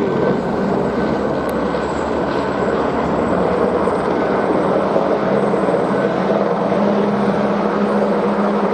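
Helicopter flying close by as it swoops round, its rotor and engine noise loud and steady.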